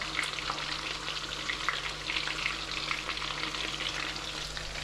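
Hot oil in a pan sizzling and crackling, with a steady low hum underneath.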